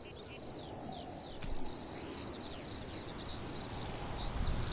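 A small bird sings a continuous high twittering song made of quick, short downward-sliding chirps, over a steady outdoor hiss of field ambience that swells near the end. There is a faint click about one and a half seconds in.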